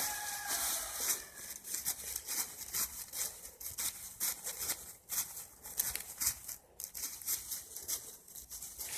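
Faint, irregular rustling and scratching of feathers as a freshly beheaded rooster's body stirs and twitches.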